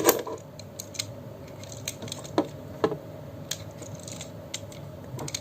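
Scattered light clicks and taps of a snap-together plastic model kit toy being picked up and turned over in the hands, a few isolated ticks a second or so apart.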